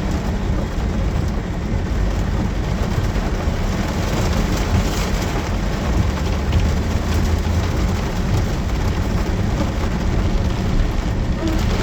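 Heavy rain pouring down in a storm, a steady hiss over a continuous deep rumble, the hiss growing harder near the end.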